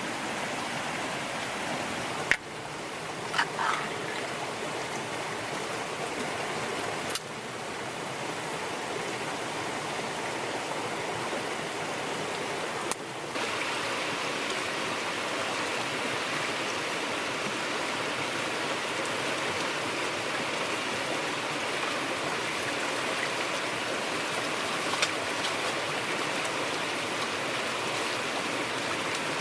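Steady rushing of running water, with a few short clicks and knocks in the first several seconds.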